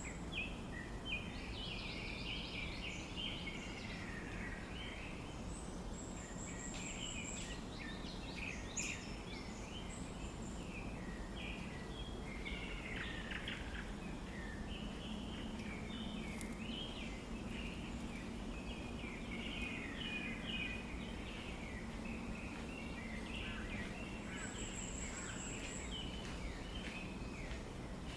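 Birds chirping and calling in quick, overlapping runs, with a few brief, thin high whistles, over a steady background hiss.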